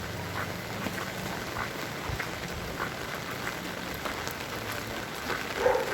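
Heavy rain falling, with many separate drops ticking sharply close by over a steady hiss.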